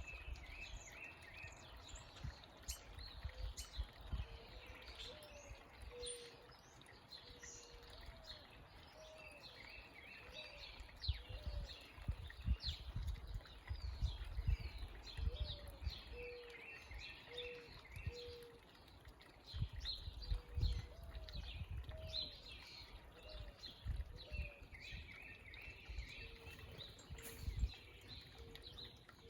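Several small birds chirping and calling over one another in quick trills, with a run of short, low hooked notes underneath. An uneven low rumble comes and goes in the background.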